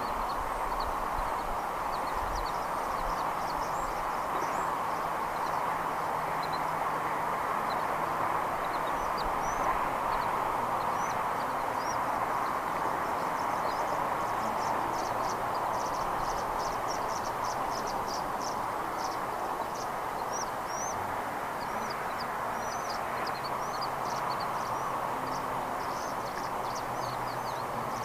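Outdoor ambience: a steady rushing noise with many short, high chirps from small birds scattered over it, running into a quick, dense series of chirps about halfway through.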